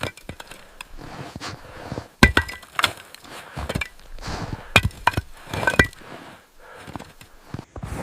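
A series of sharp knocks or cracks a second or two apart, the loudest four between about two and six seconds in, some with a brief ring after them.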